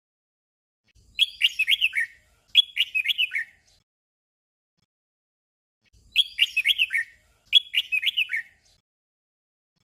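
Red-whiskered bulbul singing its short 'double' song: two quick warbled phrases back to back, each about a second long, then a pause of about two seconds, then the same pair again.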